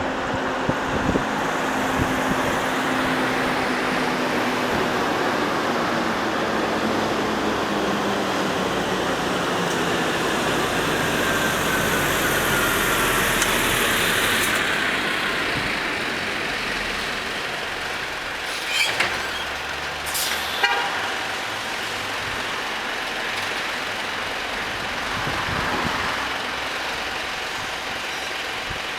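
Heavy-haul truck carrying a Shinkansen car, its diesel engine running as it creeps slowly through a turn, with a steady wash of engine and road noise. Two short sharp sounds come about a second and a half apart about two-thirds of the way through.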